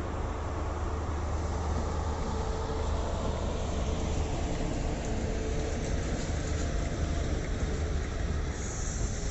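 Diesel train engine running steadily at the station, a low rumble with a faint held tone. A hiss starts about a second before the end.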